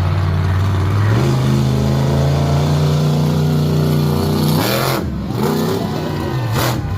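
A large vehicle engine running steadily. Its pitch steps up about a second in. It revs up and drops back briefly about five seconds in, and again near the end.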